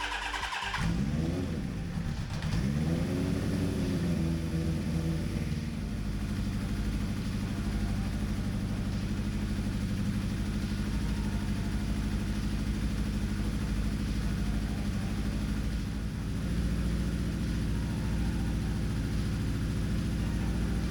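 Suzuki GS1000's air-cooled inline-four engine catching after cranking and being revved twice, the pitch rising and falling each time, then settling into a steady idle.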